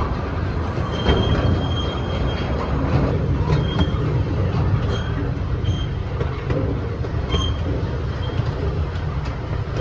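Miniature park train running along its track: a steady low rumble with several short, high wheel squeals.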